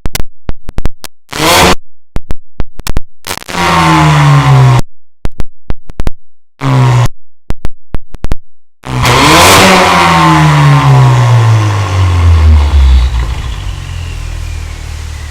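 Ford Mustang EcoBoost's turbocharged four-cylinder revved hard through a stainless-steel exhaust in short bursts, chopped by abrupt cuts to silence. About nine seconds in, one long rev falls slowly back down toward idle.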